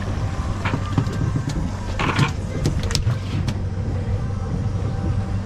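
Fishing boat's engine running steadily with a low drone, while the boat moves slowly on the water. There is a brief rush of noise about two seconds in, and a few sharp clicks.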